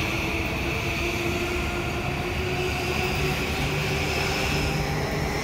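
JR East E235 series electric multiple unit on the Yokosuka Line running past the station platform: a steady rumble of the train with a steady high whine over it.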